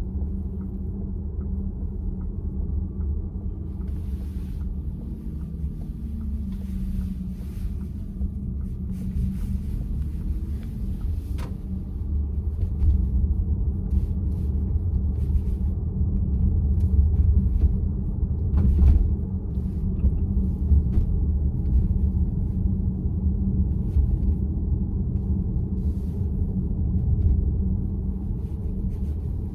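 Steady road and tyre rumble heard inside the cabin of a moving VW ID.4 electric SUV.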